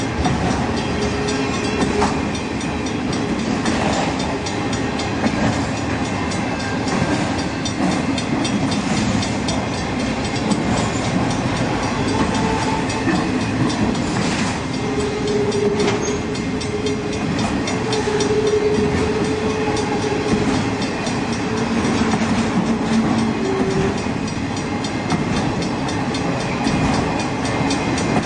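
Freight train's flatcars carrying truck trailers rolling past steadily: continuous rumble and clatter of steel wheels on rail, with short whining tones coming and going and a few sharp clicks.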